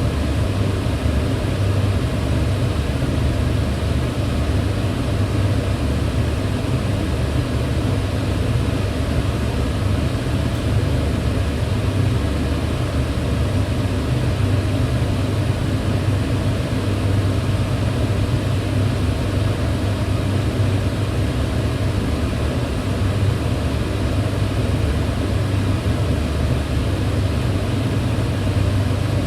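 Kitchen range hood fan running steadily: an even, low hum with a rushing hiss of air above it, unchanging throughout.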